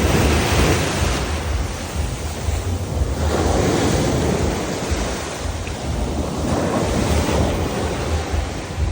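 Sea waves breaking and washing up the beach, swelling about every three seconds, with wind buffeting the microphone.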